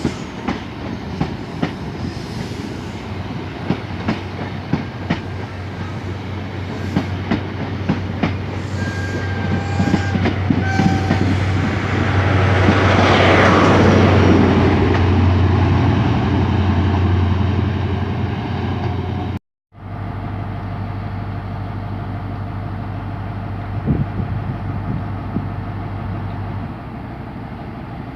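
A train moving through the station, its wheels clicking over rail joints, with a steady low engine hum that swells to its loudest about halfway through. Two short high tones sound just before the swell. After a brief dropout the low hum carries on steadily.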